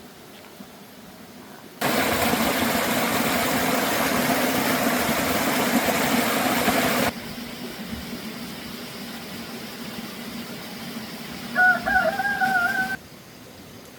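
A rooster crows once near the end, a single wavering call of about a second and a half. Before it, a loud steady rushing noise runs for about five seconds and stops abruptly.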